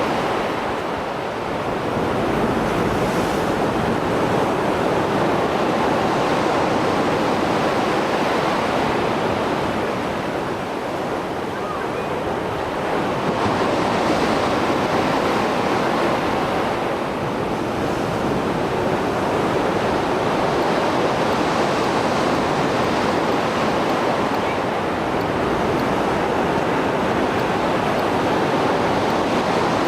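Mediterranean Sea surf after a storm: waves breaking and washing in a continuous rush, swelling and easing every few seconds.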